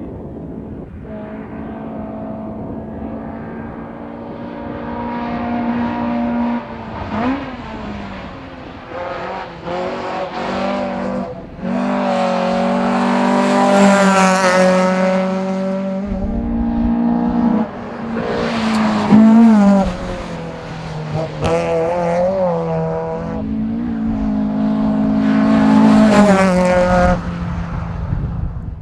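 1984 Toyota AE86 race car accelerating hard, its engine revving up through the gears with sharp drops in pitch at each shift or lift. It swells loudest a few times as the car comes close by.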